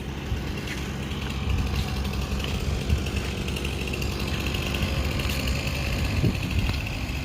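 Vehicle engine running steadily at a low, even rumble, with a faint high whine joining about halfway through.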